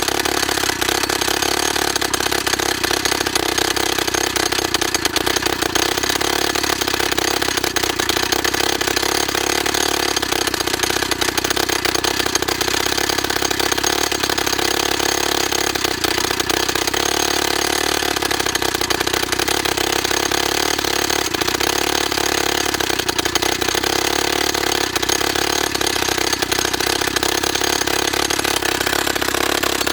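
YN30A petrol rock drill running steadily, its two-stroke engine going with a rapid clatter throughout.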